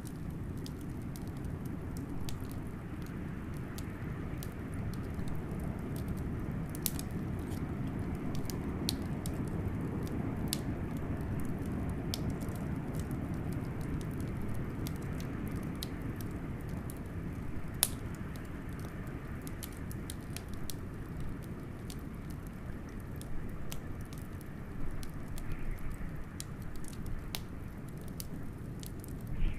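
Wood fire crackling with scattered sharp pops, one louder pop a little past the middle, over a steady low rush of howling blizzard wind.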